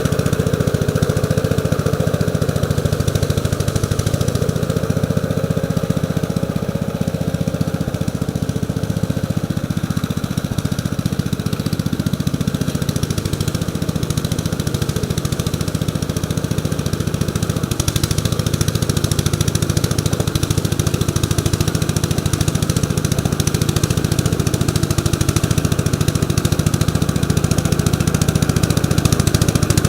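1948 Gravely Model L walk-behind tractor's single-cylinder engine running steadily with an even, rapid firing pulse.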